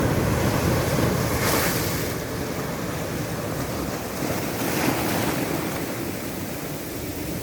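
Ocean waves washing ashore, a steady rush of surf that swells twice, about one and a half seconds in and again near five seconds, with wind buffeting the microphone.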